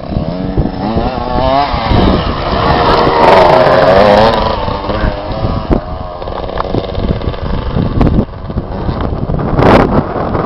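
Motocross bike engine revving, its pitch rising and falling repeatedly, loudest a few seconds in.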